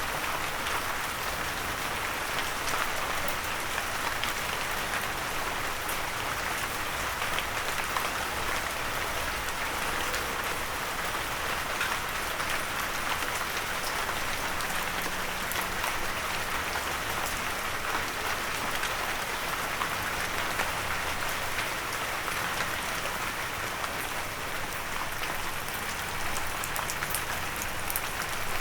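Steady rain pattering on a windowsill, a constant hiss with many small sharp drop ticks.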